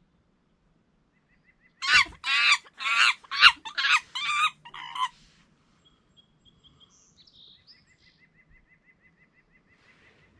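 A bird calling loudly: a series of about seven harsh calls in quick succession, growing weaker towards the last. Later comes a faint, evenly ticking high trill from a small songbird.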